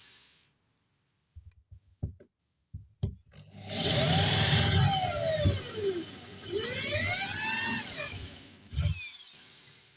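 Electric drill boring through a chipboard floor panel. It winds down, then a few knocks, then it runs for about five seconds with its pitch dipping and rising again. A knock follows as it stops.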